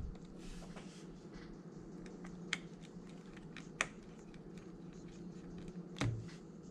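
Scattered light clicks and taps of small repair tools handling smartphone parts, with two sharper clicks in the middle and a louder knock about six seconds in, over a steady low hum.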